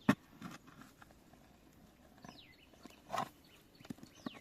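A digging tool striking into soil as a wild yam is dug out of a deep hole, with a sharp knock right at the start and a rougher scraping strike about three seconds in. Birds call with short, falling whistles in between.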